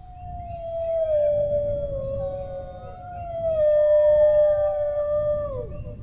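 Dogs howling in long, drawn-out overlapping howls. One howl slides slowly down in pitch, a second joins about two seconds in, holds steady and then drops off sharply near the end.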